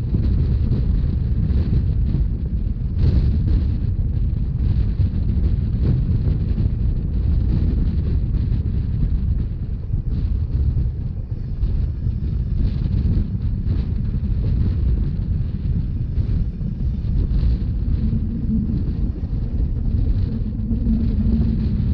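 Steady low rumble of a Rhaetian Railway narrow-gauge train running along the line, with wind buffeting the microphone.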